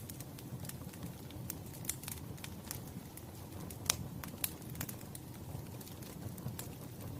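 Wood fire crackling: irregular sharp snaps and pops, a couple of them louder around the middle, over a low steady rumble.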